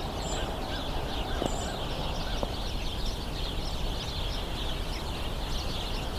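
A large flock of house sparrows chattering and squabbling continuously, many chirps overlapping, over a steady low background rumble. Two thin, high, short notes from another bird sound in the first two seconds.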